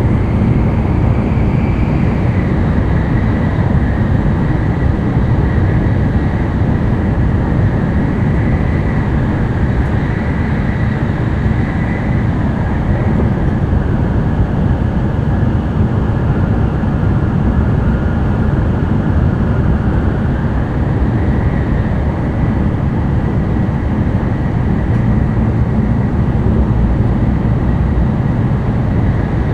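N700-series Shinkansen running at speed, heard inside the passenger cabin: a loud, steady low rumble with a faint high tone that drifts slightly in pitch.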